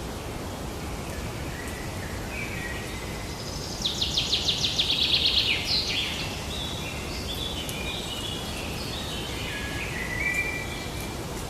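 Songbirds singing over a steady outdoor hiss. About four seconds in, one bird gives a loud, rapid trill of quick falling notes lasting about two seconds. A run of short whistled notes at shifting pitches follows.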